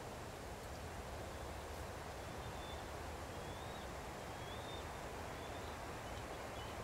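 Steady outdoor background noise with faint, high, short bird chirps, about one a second in the middle stretch.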